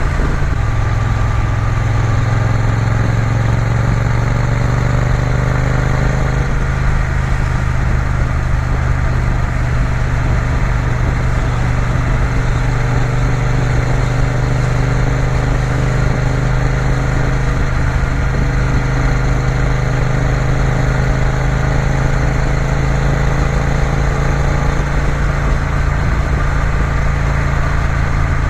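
Triumph Bonneville T120's parallel-twin engine running steadily under way, a constant low drone with road and wind rush, its pitch rising gently a few times as the bike gathers speed.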